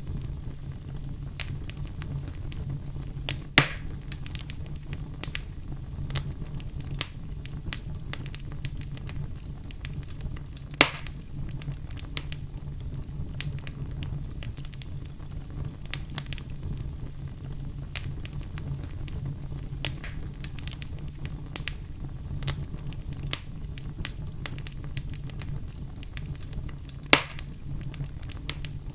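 Wood fire burning in a fireplace: a steady low rumble with scattered crackles and three loud pops about 3.5, 11 and 27 seconds in.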